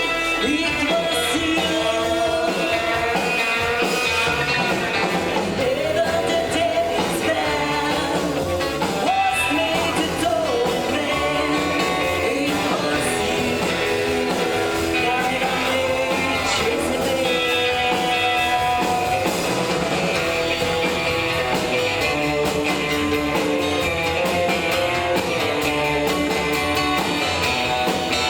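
A rockabilly band playing live, with a lead singer over electric guitar and drums.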